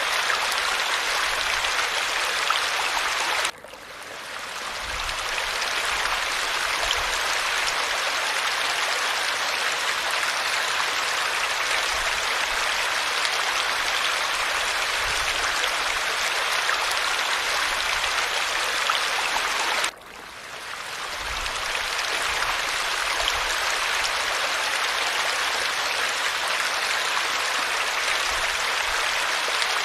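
Steady rush of falling water. Twice, about three seconds in and again near twenty seconds, the sound drops away suddenly and swells back over a couple of seconds.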